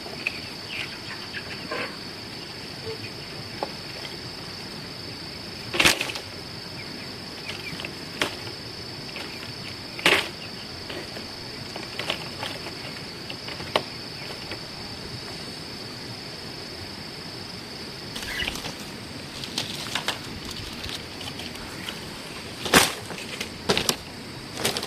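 Steady high-pitched drone of insects that stops about three-quarters of the way through, with scattered sharp knocks every few seconds, the loudest near the end.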